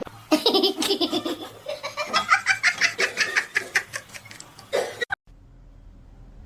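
A person laughing hard in a long run of quick repeated bursts. The laughter cuts off suddenly about five seconds in, leaving a faint low hum.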